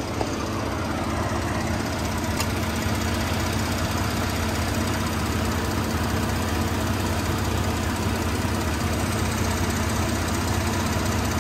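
Ford 3.5 EcoBoost twin-turbo V6 idling steadily.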